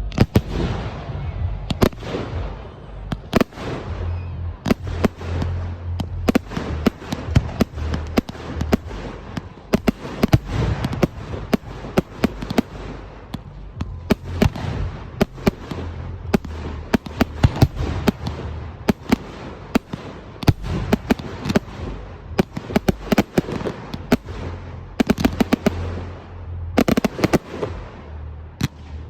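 Professional fireworks display: a dense, continuous run of sharp bangs, several a second, with a quick flurry of bangs near the end.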